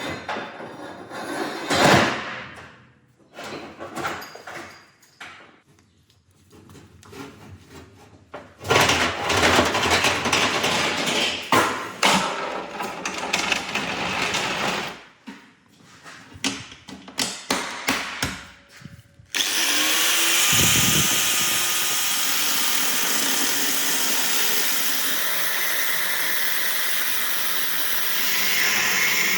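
Metalworking shop sounds: short, uneven scraping and knocking for the first two-thirds, then a power tool starts and runs steadily to the end.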